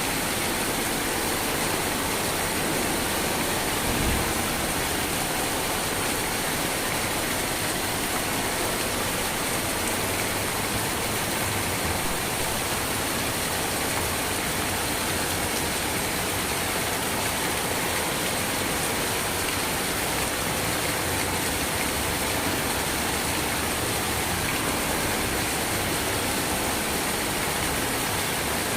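Steady rain falling, a constant even hiss with no breaks. There is one brief low thump about four seconds in.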